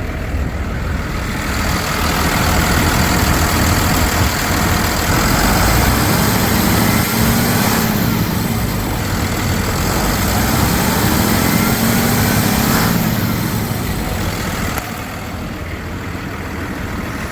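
Cummins 6.7 L diesel engine of a Ford F-750 truck running. It gets louder about two seconds in, its speed rises and falls twice, and it settles back down near the end.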